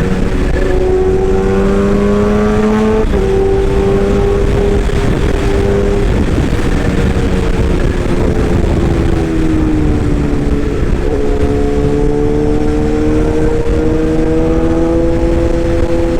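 Electric motors of a toy excavator running, a steady whine that slowly rises and falls in pitch as the load changes, over a rough mechanical rumble.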